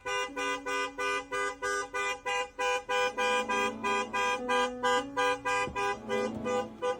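A rapid, even run of horn-like honks, about three to four a second, each a short pitched tone with strong overtones.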